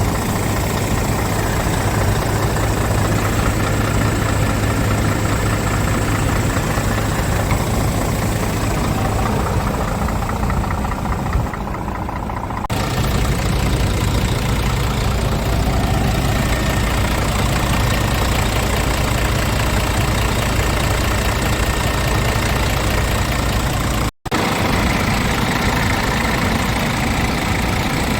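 Scania R450 truck's 12.7-litre inline-six diesel engine idling steadily, with no revving. The sound changes abruptly about twelve seconds in and drops out for an instant about two-thirds of the way through.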